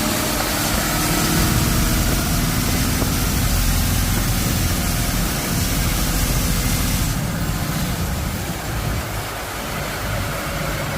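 Fishing boat's Yanmar diesel engine running steadily with a low, rapid rumble. A high hiss over it eases off about seven seconds in.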